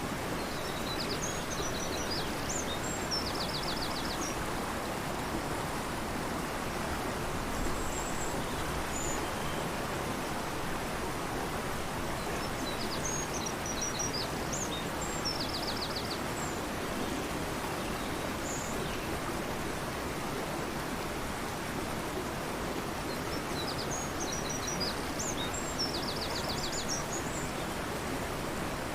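Steady rush of a fast-flowing river, with a small songbird singing the same short, high phrase three times, about every eleven seconds, each ending in a fast trill; a few faint single high chirps between.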